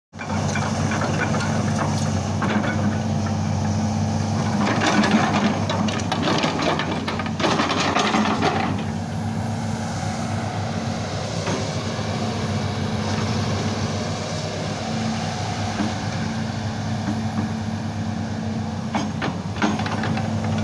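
Hitachi ZX200 excavator's diesel engine running at a steady speed, with metallic clanking and rattling over it, busiest in the first nine seconds or so and again near the end.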